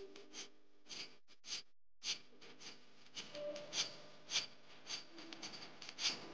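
A run of short, airy swishing strokes, two or three a second and uneven, from makeup brushes being worked and rinsed during washing. The sound drops out completely for a moment just before two seconds in.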